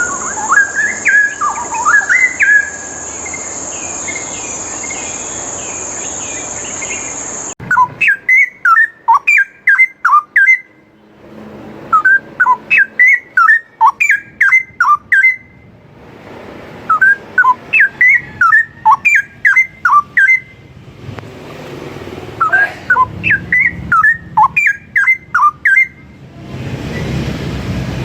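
Straw-headed bulbul singing: loud, rich, bubbling phrases of fast gliding whistled notes, each phrase about three seconds long and repeated five or six times with short pauses. A steady high shrill tone like a cricket runs underneath and cuts off suddenly about seven seconds in.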